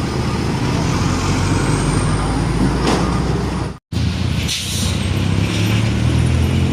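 Heavy diesel trucks running past in traffic, a steady low engine drone. The sound cuts out for an instant a little over halfway through and picks up again on another truck, with a short hiss soon after.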